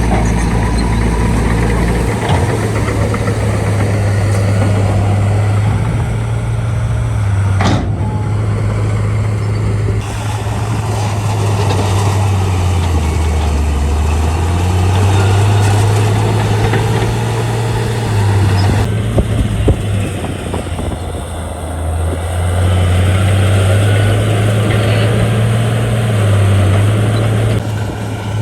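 Bulldozer's diesel engine running hard while pushing fill. The engine pitch sags under load about halfway through, then picks up again, with a steady mechanical rattle underneath.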